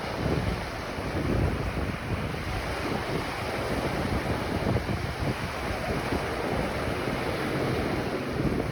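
Ocean waves breaking and washing on a beach, a steady churning surf rising and falling, with wind buffeting the microphone.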